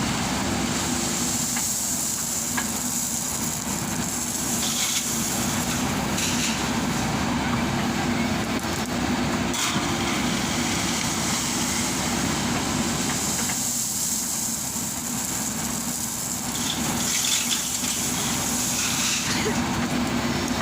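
Diesel engine of a JCB backhoe loader running steadily, with a rushing hiss that swells twice, about a second in and again near the end.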